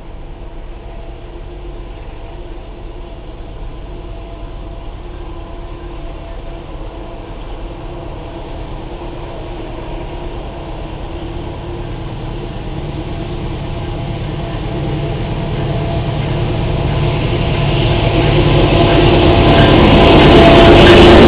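Diesel locomotive approaching with its engine running, a steady low rumble with a few held tones that grows steadily louder.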